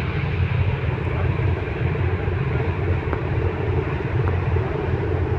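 Steady low drone of a passenger ferry's engines, heard from inside the ship.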